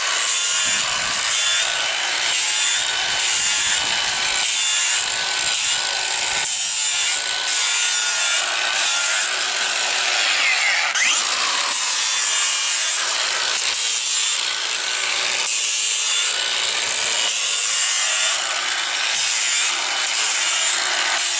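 Angle grinder with a hoof-trimming disc grinding down a horse's hoof wall. It makes a loud, continuous rasping whir throughout.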